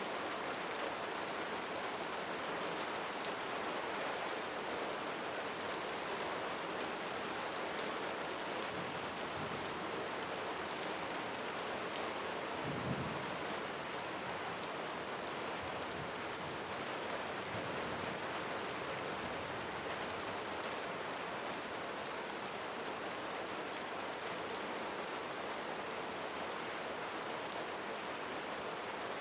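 Steady rain falling on leaves, with fine individual drop hits throughout. A brief low rumble comes about thirteen seconds in.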